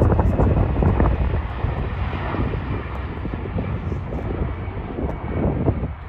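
Jet airliner engines rumbling as a plane passes by, loudest at the start and slowly fading away.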